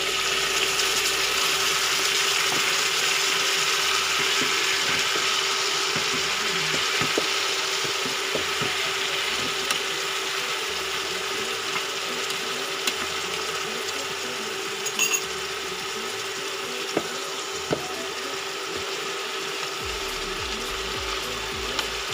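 Salmon steaks frying in butter and garlic, sizzling hard just after Worcestershire sauce hits the hot pan, the sizzle slowly easing. A steady faint hum sits underneath, with a few light clicks.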